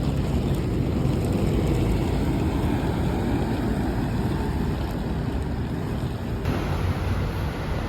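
Steady low rumbling noise, like wind buffeting the microphone or distant traffic, with no distinct events.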